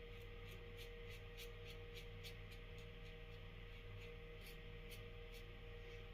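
Faint, short scrapes of a Merkur Futur adjustable safety razor with a Gillette Nacet blade drawn over the face in quick strokes, about three a second, on a final pass with little stubble left. A low steady hum lies underneath.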